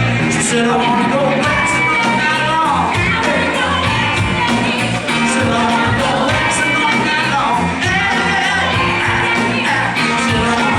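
Live band playing loud, steady music with a driving beat and singing, some notes sliding down in pitch.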